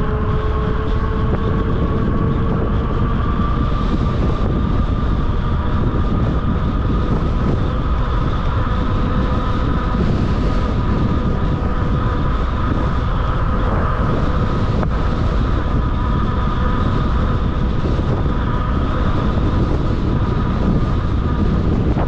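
Wind rushing over the microphone as a 750-watt fat-tire e-bike is ridden at high speed into a headwind, with a steady whine from the bike beneath it.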